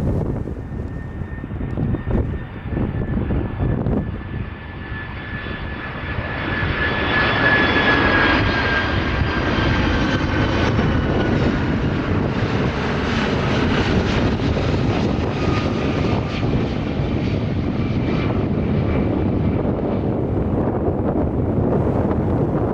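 Jet airliner passing close by: a high engine whine slowly falls in pitch over a deep rumble, which swells about six seconds in and stays loud.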